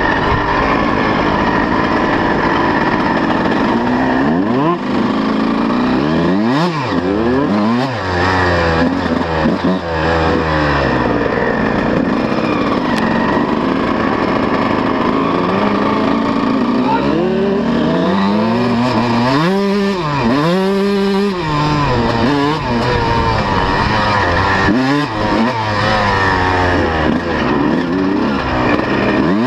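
125cc two-stroke motocross bike engine being ridden, its revs rising and falling over and over as the throttle is opened and closed.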